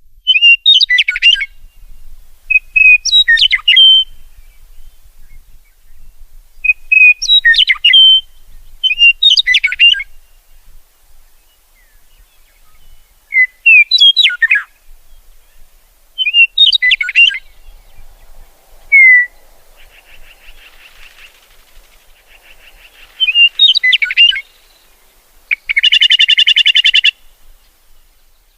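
A songbird singing short, loud, whistled phrases that sweep sharply up and down, repeated about every two to three seconds. Near the end comes a harsh, buzzy call.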